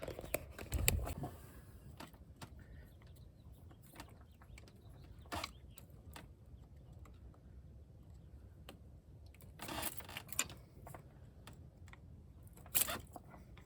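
Sporadic light clicks and rattles of small plastic and metal parts being handled, as wiring-harness clips and connectors are worked loose in a car's engine bay. A few sharper clicks stand out, about a second in, mid-way and near the end.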